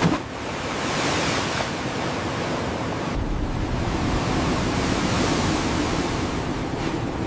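Blizzard wind blowing, a steady rushing noise that swells and eases slightly, with a short sharp surge right at the start.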